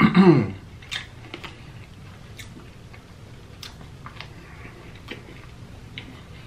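A person chewing crispy fried chicken, with faint, scattered crunches and mouth clicks about once a second.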